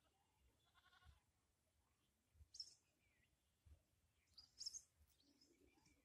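Near silence with faint bird chirps: short high-pitched calls, the clearest about two and a half and four and a half seconds in.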